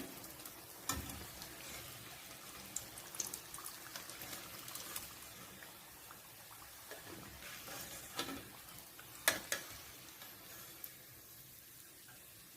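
Chicken pieces deep-frying in hot oil in a kadai, a faint steady sizzle with scattered light crackles and a couple of sharper clinks, about a second in and again near nine seconds.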